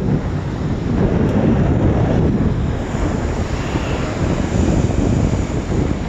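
Wind buffeting the microphone, a loud, gusting low rumble, with ocean surf washing underneath.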